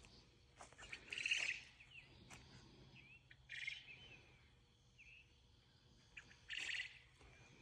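A songbird singing a short trilled phrase three times, about every two and a half to three seconds, with softer single chirps between.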